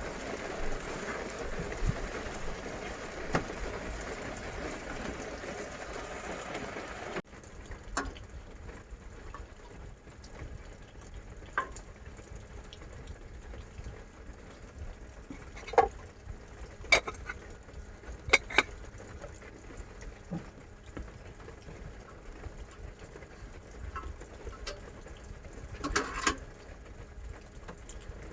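Steady heavy rain for the first several seconds. About seven seconds in it cuts off abruptly to a quieter background broken by scattered sharp clicks and taps.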